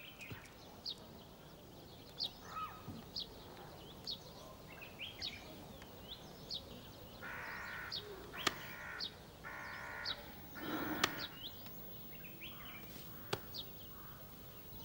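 Faint birds chirping, short calls repeated every second or so, with two longer calls about seven and nine and a half seconds in.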